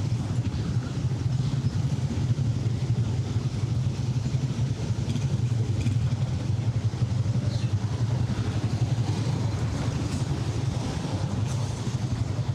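Steady low rumble of city street traffic, with faint scattered higher sounds over it.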